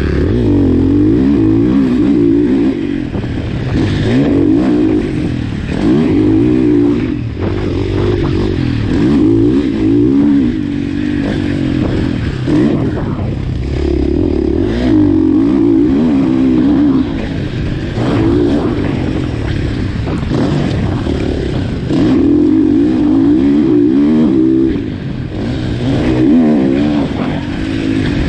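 2019 KTM SX-F 450 single-cylinder four-stroke motocross bike engine, revving up and backing off again and again as the throttle is worked, in surges every second or two.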